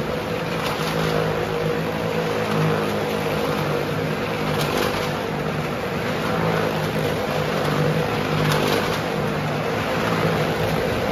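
A car's and motorcycles' engines running steadily as they circle the vertical wooden wall of a well-of-death drum, held at an even speed with little change in pitch.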